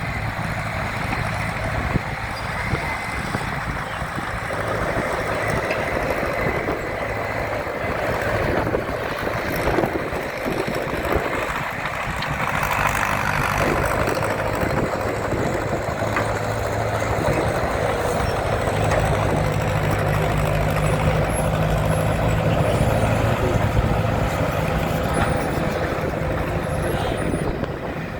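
Diesel engine of a Ford County timber winch tractor running steadily.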